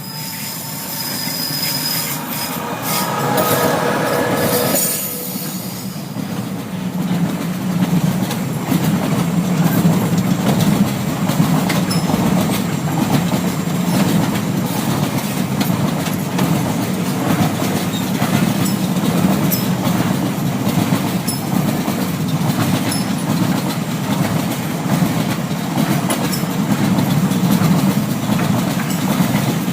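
Electric double-decker passenger train running on rails: its wheels squeal with several high tones for the first five seconds or so, then it settles into a steady low rumble with faint clicks every second or two.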